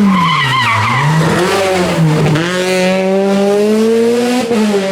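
R2B-class rally car engine coming off the throttle with its revs dropping, tyres squealing briefly. The revs dip once more, then the engine pulls back up and holds high revs under full throttle.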